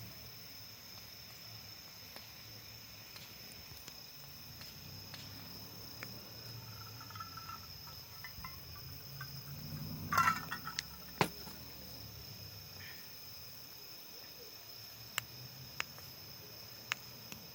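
Wood fire crackling, with sharp snaps and pops: a cluster about ten seconds in and a few single ones near the end. A steady high-pitched ring runs underneath.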